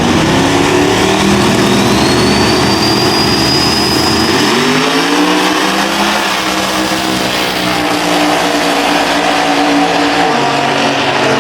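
Single-turbo Ford Mustang drag car engine running hard under acceleration. Its pitch shifts twice, about four and ten seconds in. A high whistle rises and holds from a second or two in.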